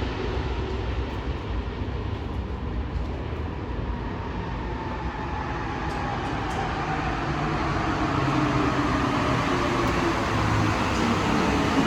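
Santiago Metro Alstom train running through a station, its traction motors whining over the wheel and rail noise. The whine falls in pitch through the first half. In the second half rising tones come in and the sound grows louder.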